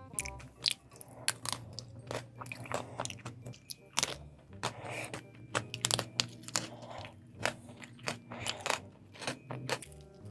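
Close-miked eating of chocolate, with repeated sharp crunches and bites between chewing.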